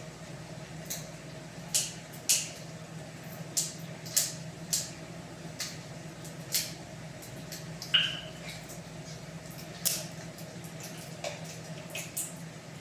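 Kitchen cooking noises: irregular sharp clicks and pops, a couple of dozen over the stretch, over a steady low hum, with one brief squeak about eight seconds in.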